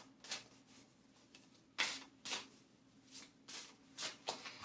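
Oracle or tarot cards being handled, slid and laid down: a handful of short, brisk paper rustles and flicks at irregular intervals.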